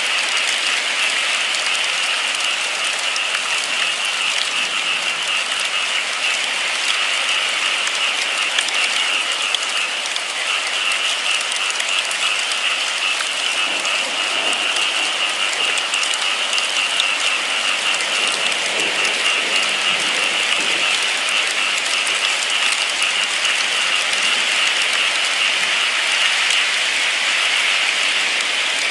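Steady, fairly loud rain, a dense patter of drops.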